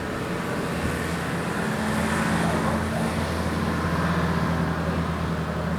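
A motor vehicle's engine running with a steady low drone that grows louder about two seconds in, over traffic noise.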